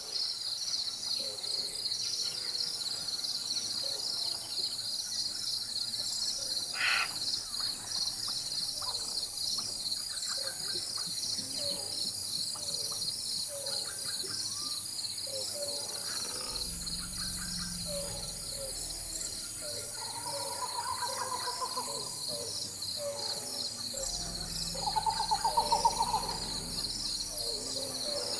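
Rainforest ambience: a steady, pulsing insect chorus with scattered bird calls, including a louder trilled call near the end. Twice there is a low rumble of distant thunder.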